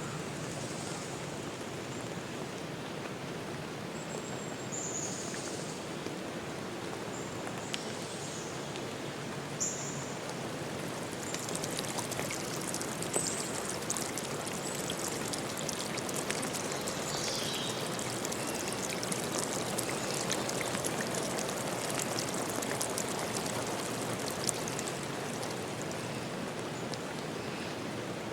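Steady rush of flowing water, like a forest stream, with a few short, high bird chirps. About a third of the way in, a light crackle of fine ticks joins the water, and about two-thirds in one bird call falls in pitch.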